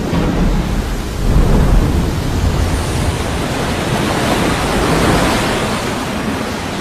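Kavachi, an undersea volcano, erupting through the sea surface: a steady low rumble with a hissing, rain-like wash of water and spray. It swells about a second and a half in and again near five seconds.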